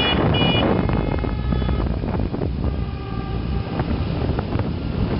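Motorcycle riding through town traffic with wind rushing over the microphone; a short high-pitched vehicle horn beeps right at the start, and a lower, fainter horn-like tone sounds about three seconds in.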